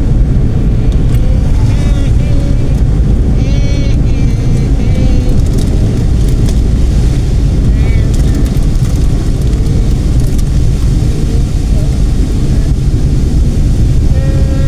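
Steady loud rumble of a car driving on the road, with brief snatches of voices or music over it.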